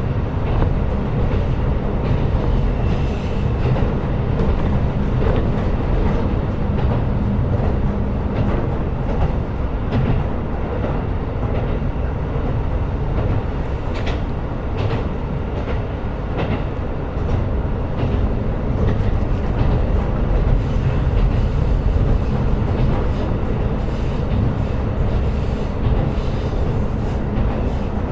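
KiHa 125 diesel railcar running along the line: a steady low rumble of engine and wheels on rail, with a few clicks of the wheels over rail joints around the middle.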